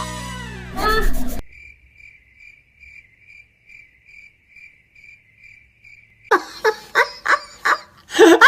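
Cricket chirping sound effect: a thin, high chirp pulsing about three times a second, the stock cue for an awkward silence. Music cuts off just before it starts, and voices come in near the end.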